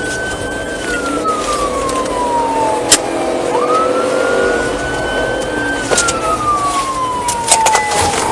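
Police car siren in wail mode: a quick rise, a held high note, then a slow fall, going round twice, over engine and road noise from a high-speed pursuit. A few sharp clicks sound near the end.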